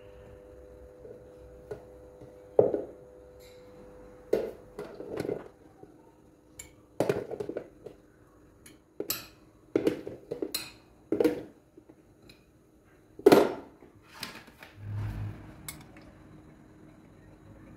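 Dishes and cutlery clinking and knocking as they are handled: a dozen or so separate short clinks, loudest about 2.5 s and 13 s in, with a duller thump near the end, over a faint steady hum.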